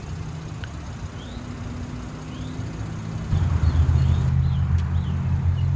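Steady low engine rumble from a motor vehicle, growing louder about three seconds in, with faint short chirps above it.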